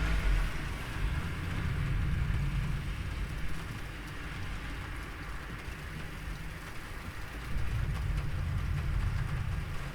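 Steady rain hissing with the low rumble of rolling thunder underneath, swelling about two seconds in and again near the end.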